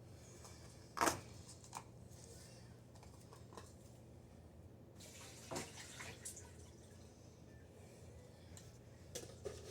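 A few light knocks and clinks of food jars and containers being handled and taken out of a fridge, about a second in, in the middle and near the end, over a faint steady low hum.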